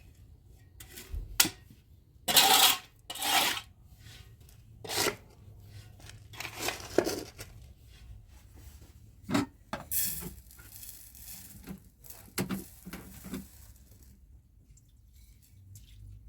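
Objects being handled: an irregular series of scrapes, rustles and clinks, loudest about two to four seconds in.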